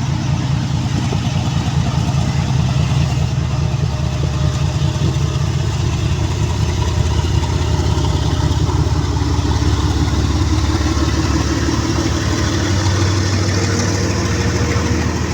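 GE40-class diesel-electric locomotive engine running steadily under load as it pulls a passenger train away from a station, a loud low throb.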